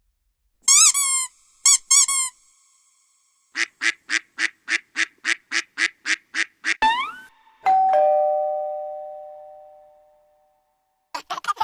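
A string of prank sound effects: a few high, wavering squeaks, then a quick run of about a dozen short honking beeps, and finally a two-note doorbell chime that rings out and slowly fades.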